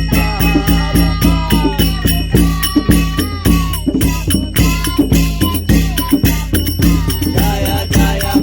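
Kirtan music with a fast, steady beat of jingling hand percussion and drum under a melody line.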